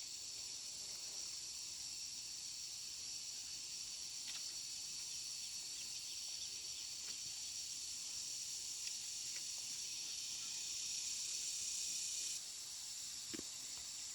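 Steady high-pitched insect chorus, with a few faint clicks through it. It gets slightly quieter near the end, just before a single soft knock.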